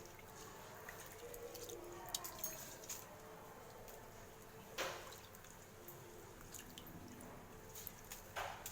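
Rice being added to a pot of chicken stock: faint water splashes and soft knocks, with a slightly louder one about five seconds in and another near the end.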